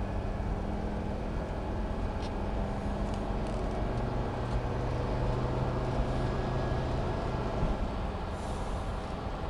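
1984 Mercedes 300D Turbo's five-cylinder turbodiesel cruising at highway speed, heard from inside the cabin: a steady engine drone mixed with road and wind noise. A low hum comes in about four seconds in and fades out near eight seconds.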